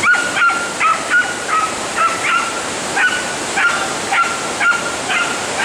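A dog yapping again and again in short, high-pitched yips, about two a second, over the steady rush of white-water rapids.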